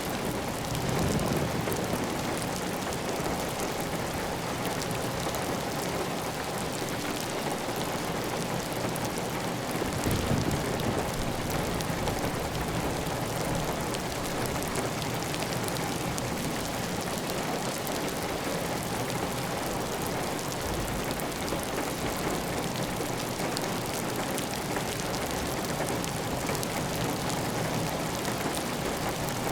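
Steady heavy rain on a clay tile roof, with water running off the roof edge. It swells briefly about a second in and again about ten seconds in.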